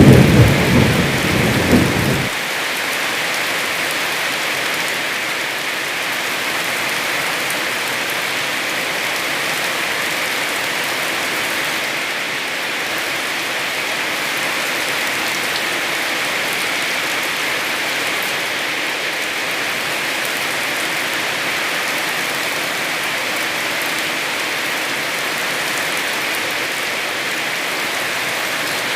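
A loud low rumble of thunder cuts off abruptly about two seconds in, leaving heavy rain falling steadily.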